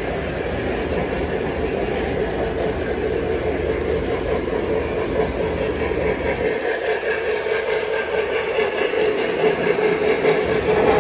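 Model train running along the track with a steady rumble of wheels and motor. The low part of the rumble drops away about six and a half seconds in.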